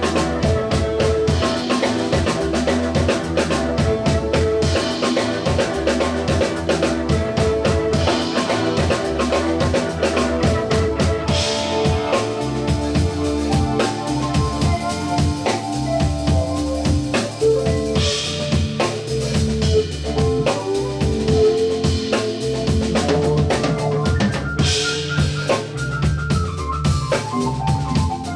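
Live rock band playing an instrumental passage: a drum kit keeps a steady beat under sustained melodic lines and a bass line. A cymbal crash rings out about every six or seven seconds in the second half.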